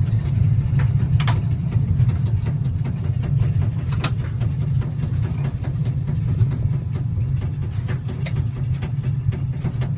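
Aircraft on its landing roll-out with the engine throttled back to idle after a power-off glide: a steady low rumble in the cockpit, with scattered knocks and clicks, the clearest about a second in and again about four seconds in.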